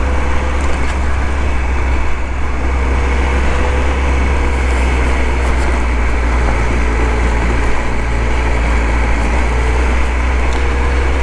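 Motorcycle under way, its engine running steadily beneath a heavy, even wind rumble on the microphone.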